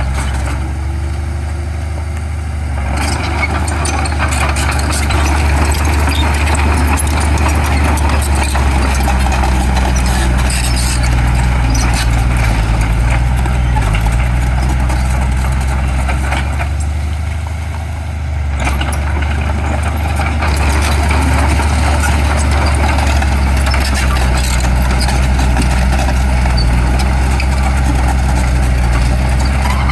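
Heavy diesel engine of earthmoving machinery running steadily under load, easing briefly twice and then pulling harder again.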